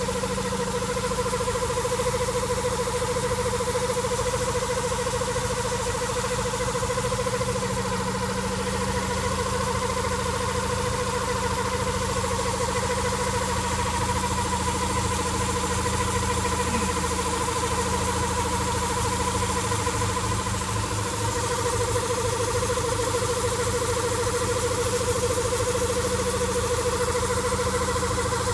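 1997 Honda Accord engine running steadily, with a steady whining tone over the engine's low rumble: an unknown noise that the owner cannot place.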